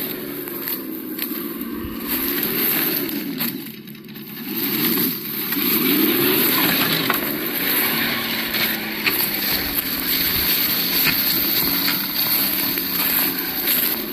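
Absima Yucatan 1:8 RC crawler's sound module playing a simulated engine note through its small speaker, the pitch rising and falling with the throttle, over a rough rolling noise. The engine note drops away briefly about four seconds in.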